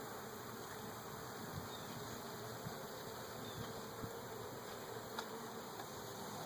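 Honeybees humming steadily in an opened hive, a low even buzz of many bees, with a few faint ticks.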